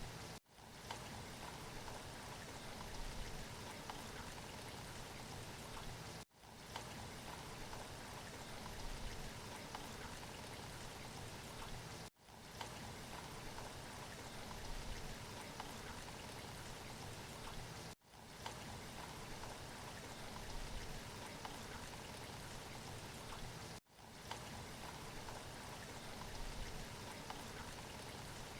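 Steady rain falling, a looped rain recording that cuts out for an instant about every six seconds before fading back in.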